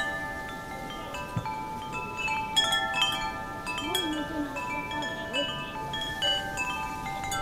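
Wind chimes ringing: many overlapping clear tones struck at irregular moments and left to ring on.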